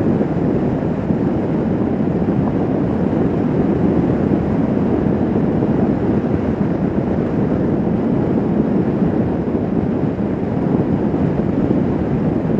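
Motorcycle riding at steady road speed: wind rushing over the helmet microphone with the engine running underneath.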